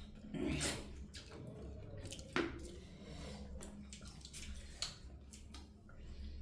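Eating noises: scattered wet mouth clicks and smacks of chewing, a few each second, some louder than others.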